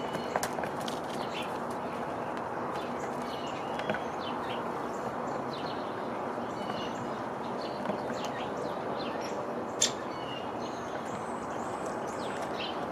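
Small birds chirping repeatedly, short calls scattered throughout, over a steady background hiss, with a sharp click just before ten seconds in.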